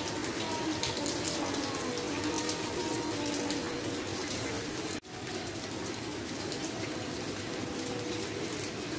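Heavy rain falling on a wet tiled terrace and its metal railing: a steady, even patter with water splashing into standing puddles. The sound cuts out for an instant about five seconds in.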